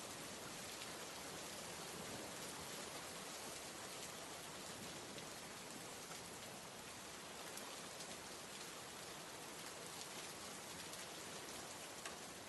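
Steady rain ambience: an even hiss of rainfall with scattered faint drop ticks.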